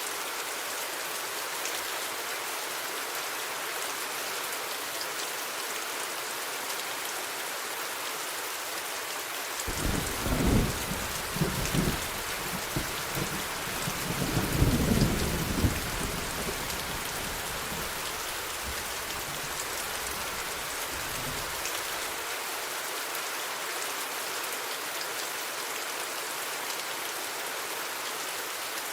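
Steady heavy rain hissing, with a roll of thunder starting about a third of the way in: a couple of sharper claps followed by a longer low rumble that peaks near the middle and dies away before the last third.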